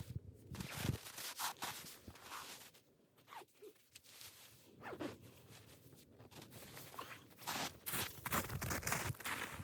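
Quiet, intermittent short rustling and scraping noises with pauses between them.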